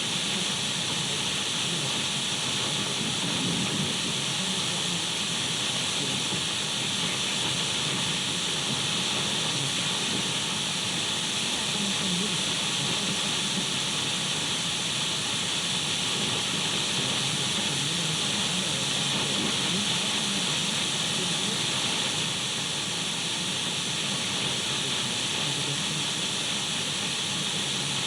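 Radio static: a steady, even hiss with no breaks, strongest in the upper-middle range, over a faint low rumble.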